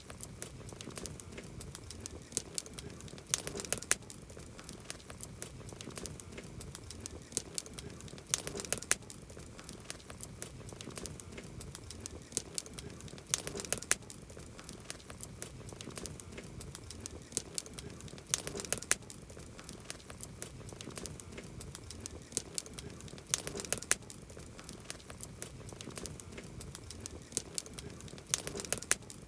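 Campfire crackling, with many small sharp pops and a cluster of louder snaps about every five seconds.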